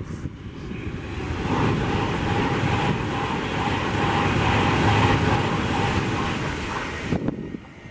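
A Virgin Trains high-speed express passenger train passing at speed: a rushing noise of wheels on rail and air that builds over the first second or so, holds loud, then cuts off suddenly near the end.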